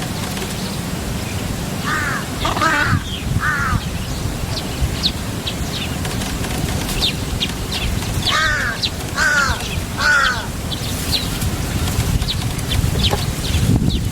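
A bird giving harsh, crow-like caws in two sets of three, with short high chirps between, over a steady low rumble.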